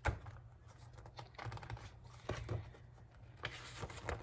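Pages of a picture book being turned and handled: a sharp paper flick right at the start, then several soft rustles and small taps.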